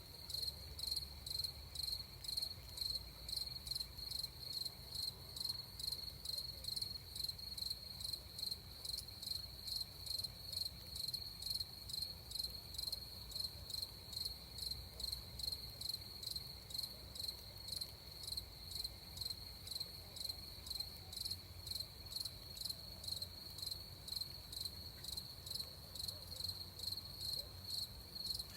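Crickets chirping in an even, steady rhythm, about two chirps a second, over a faint low rumble.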